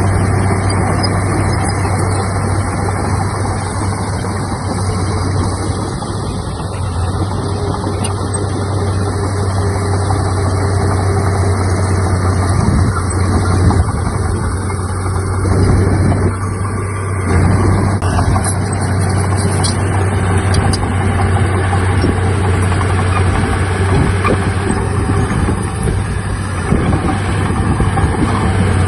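Komatsu D31P bulldozer's diesel engine running steadily, a constant low drone that holds the same pitch throughout.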